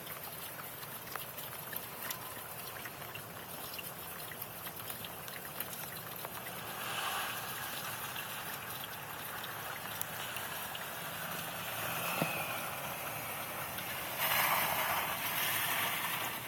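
Snowstorm noise: a steady hiss scattered with small ticks, like snow or sleet striking, swelling louder about seven seconds in and again near the end.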